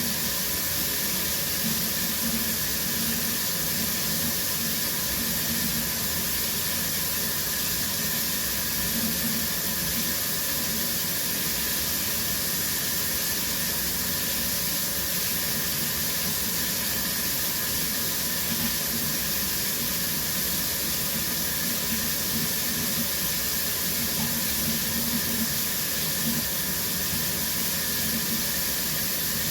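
Shower running steadily: an even hiss of water spraying and falling.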